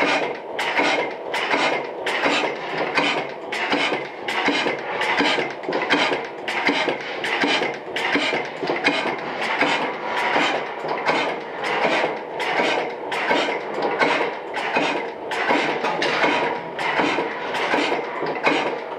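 1896 Gardner size 2 hot tube gas engine running, with a steady, even beat a little under two a second and clattering metal from its moving parts.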